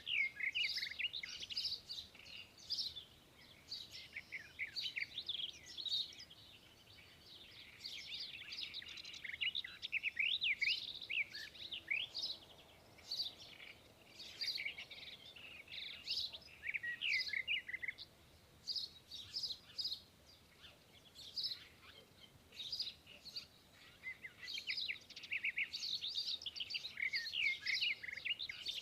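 Small birds chirping and calling with quick, high, rising and falling notes, several at once, with short gaps.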